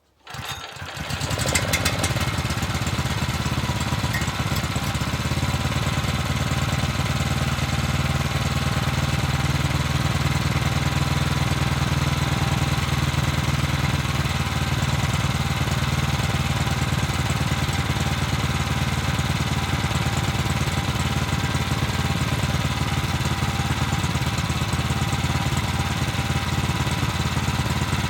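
Brait 17 hp petrol engine starting up and then running at a steady speed.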